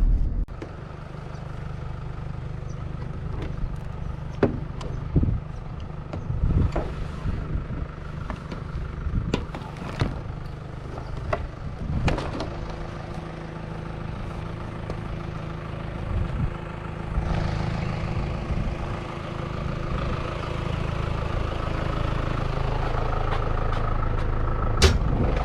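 Motor vehicle engine running steadily, with scattered clicks and knocks in the first half; the engine note grows a little louder and steadier from about midway.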